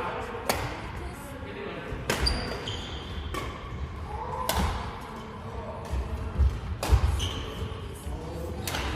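A badminton doubles rally: rackets striking the shuttlecock about seven times, roughly once every second and a bit, with shoes squeaking on the court floor between hits, echoing in a large hall.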